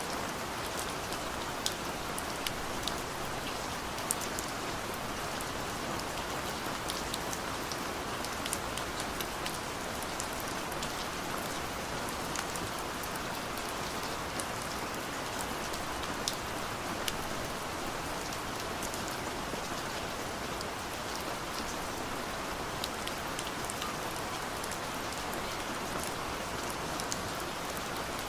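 Steady rain falling on a car, heard from inside the cabin: an even hiss of rain with scattered sharp ticks of single drops hitting the roof and glass.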